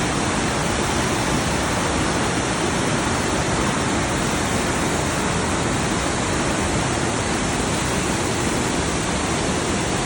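Mountain stream rushing loudly over rocks, a steady, even roar of fast water close to the microphone.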